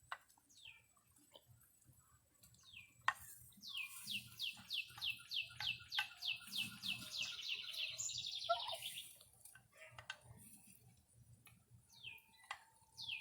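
Young turkeys peeping: a run of short whistles, each sliding down in pitch, about three a second for several seconds, then a pause and a few more near the end.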